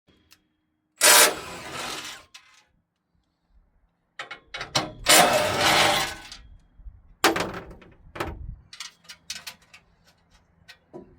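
Mechanical clatter and scraping of tools and metal parts being handled: three loud bursts, the middle one lasting about two seconds, followed by a run of short clicks and knocks.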